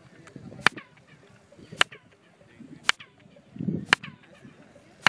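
Four sharp hand claps about a second apart, each answered by a short chirped echo that falls in pitch, the stepped pyramid stairway turning the clap into a bird-like call.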